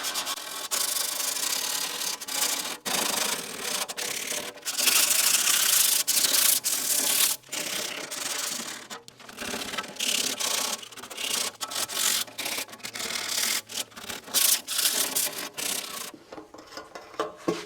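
Sandpaper scrubbing over bare, sandblasted sheet steel in uneven strokes, sanding off the sand residue left by blasting before the metal is primed. It stops shortly before the end.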